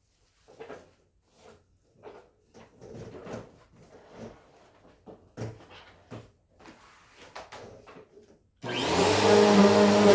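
Light rustles and knocks of handling, then near the end a vacuum cleaner switches on suddenly and runs loud and steady.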